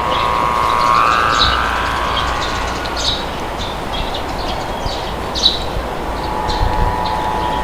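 Small birds chirping in short, repeated calls over a steady rush of wind, with a sustained whistling tone that rises briefly about a second in.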